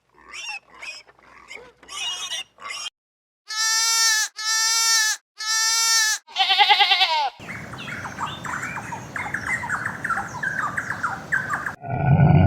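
A sequence of different animal calls cut one after another: a run of short quick calls, then three identical long, steady calls, a single wavering call, and about four seconds of dense, noisy chattering near the end.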